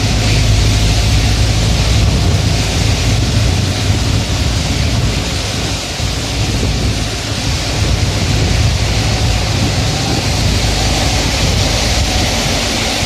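A vehicle driving in rain: a steady low engine drone under an even hiss of rain and wet tyres on the road.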